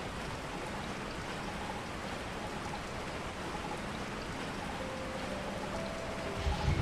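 Steady rain falling, an even hiss of rain on surfaces. Faint held musical notes drift over it, and a louder low rumble comes in just before the end.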